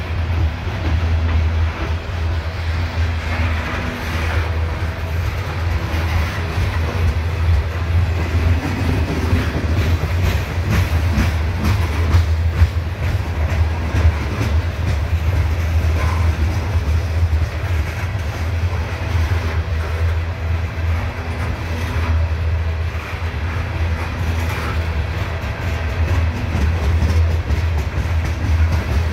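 CSX coal train hopper cars rolling past close by: a steady low rumble of wheels on rail with a running clatter of wheel clicks and knocks.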